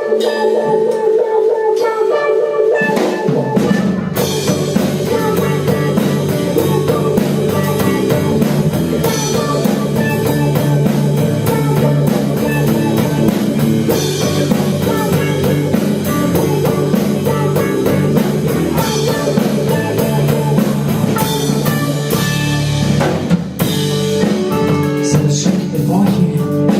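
Live rock band playing an instrumental introduction: a sustained melody alone at first, then drums, cymbals and bass come in about three to four seconds in and the full band plays on.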